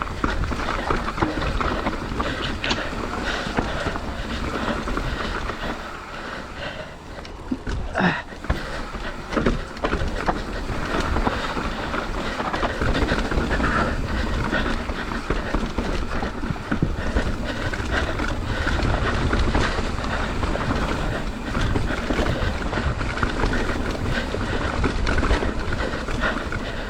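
Mountain bike descending a rough, rocky trail: tyres crunching over dirt and rock, with the bike's frame and chain rattling and knocking over the bumps, and wind rumbling on the microphone. A cluster of harder knocks comes about eight seconds in.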